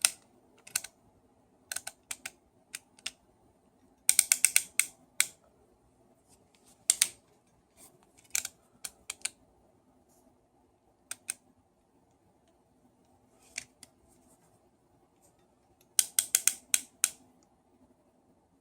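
Sharp clicks and taps of small hard parts and tools being handled during a hammer drill repair. The clicks come singly and in quick rattling runs, twice, about four seconds in and near the end.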